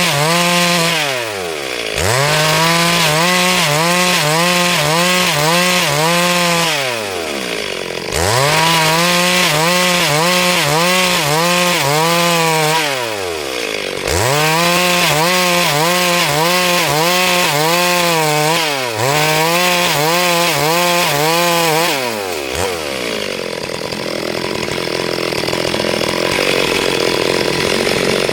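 Two-stroke chainsaw cutting wood at high revs, its note wavering under load. The throttle is let off and the pitch falls away and climbs back again several times. Near the end the engine drops off and runs on at a lower note.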